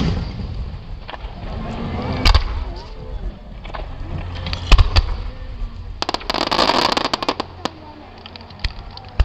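Fireworks shells bursting overhead: sharp bangs at the start, about two seconds in and just before five seconds, then a second-long stretch of dense crackling around six to seven seconds, with scattered pops after.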